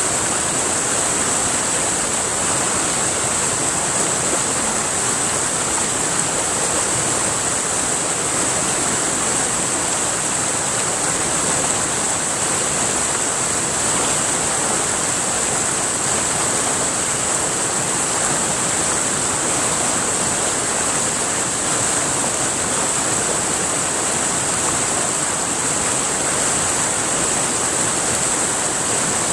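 River water rushing steadily over rocks, with an even high hiss above it.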